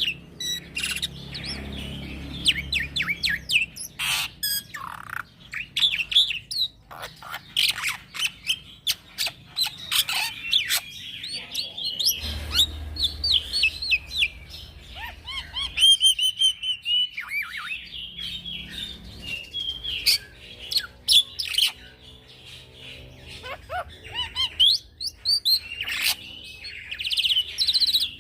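Young black-winged myna (jalak putih) singing without pause: a rapid, varied jumble of whistled chirps, short trills, glides and sharp clicks.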